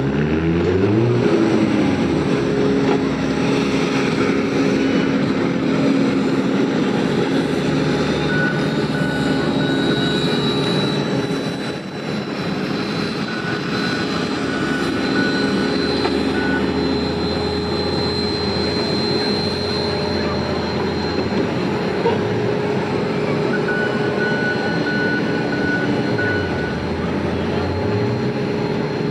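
Engines running steadily at idle, with one falling back from a rev in the first second or so and another revving up and down near the end.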